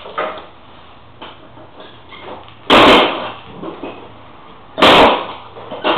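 Two loud thumps about two seconds apart, with lighter clunks between, from kick-starting a 49cc four-stroke scooter with a stiff, ill-fitting kickstarter.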